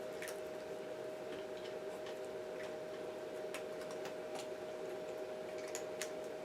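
Cats crunching dry kibble: scattered, irregular crisp clicks over a steady electrical hum.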